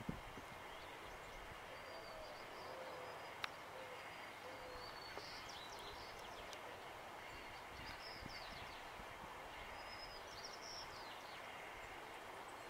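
Faint background hiss with a few distant small-bird chirps now and then, and a single sharp click about three and a half seconds in.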